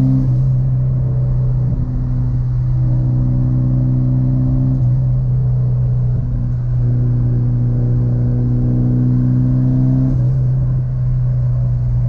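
Mitsubishi Lancer Evo's turbocharged four-cylinder engine running at steady revs while driving, heard from inside the car, with its tone easing briefly a few times.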